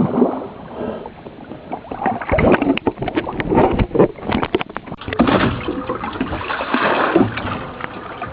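Sea water sloshing and splashing around a sailboat, with irregular short splashes and knocks through the middle and later part.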